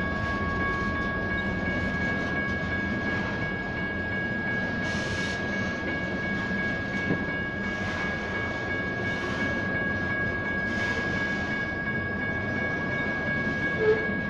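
BNSF freight train rolling through a grade crossing, wheels on rail making a steady rumble, while the crossing's General Signals Type 1 electronic bells ring continuously. There is a short sharp sound near the end.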